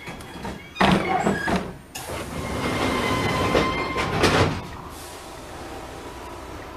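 Rail noise of an Enshu Railway 1000-series electric train, heard from the driver's cab. A sudden loud burst comes about a second in, then a steady noisy stretch with a faint held tone runs for a few seconds and dies away near the five-second mark.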